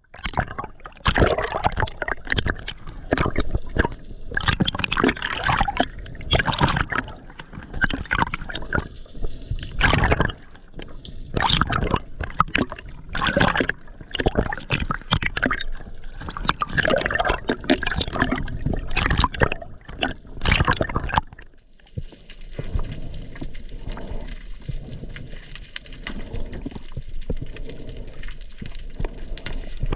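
Water sloshing, splashing and gurgling in irregular surges, as around a free diver in the sea. About 21 seconds in it drops away and becomes a steadier, even hiss.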